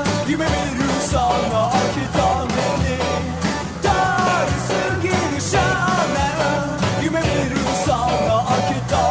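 Rock band playing: a melodic lead line weaving over drums and bass.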